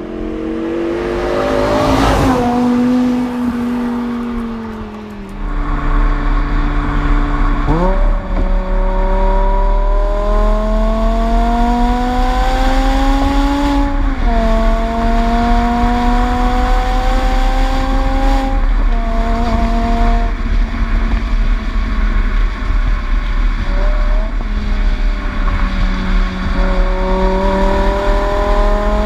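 BMW M5 E60's 5.0-litre V10 running through an exhaust with the resonators deleted, X-pipes and a Schmiedmann muffler, under way and pulling through the gears. The engine note climbs slowly, then drops sharply at each of several upshifts, with a steady road rumble underneath.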